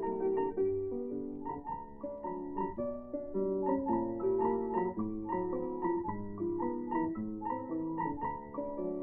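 Instrumental break in a blues recording: a piano plays a run of notes over a line of low bass notes, with no singing.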